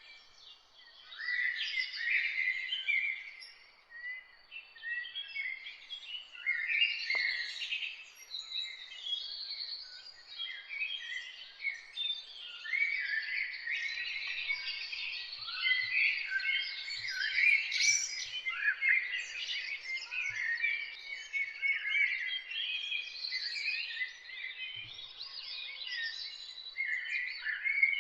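Several songbirds singing and chirping at once, a dense overlapping chorus of quick high chirps and trills with a short lull about four seconds in.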